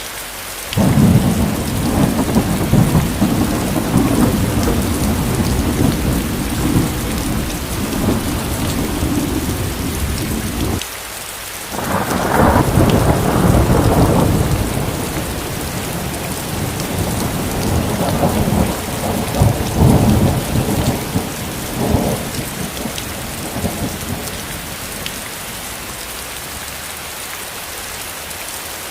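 Steady rain hiss with rolling thunder. A long low rumble starts about a second in and cuts off abruptly, then a second peal swells strongly, and further rumbles follow and fade out well before the end.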